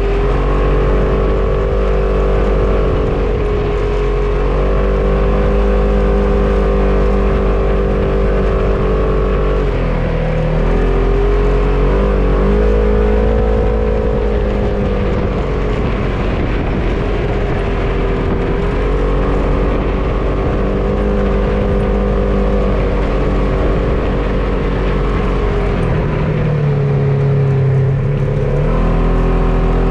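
A motor vehicle's engine runs steadily under way. Its pitch dips and recovers a few times, around a third of the way in and again near the end, as the throttle eases and picks up.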